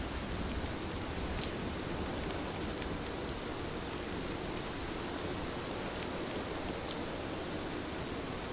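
Heavy rain falling steadily, a dense even hiss with occasional sharper drop hits.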